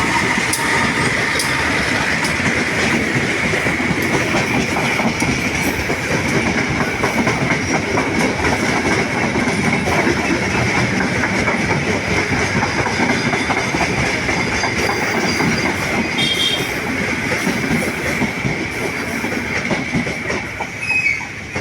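Long-distance passenger train rolling past close by, its wheels clattering over the rail joints with a steady high ringing tone over the rumble; the noise eases off near the end.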